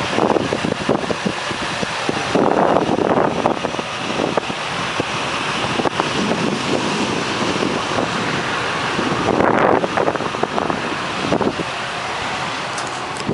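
Diesel truck pushing through floodwater, the water rushing and splashing in uneven surges, with wind buffeting the microphone.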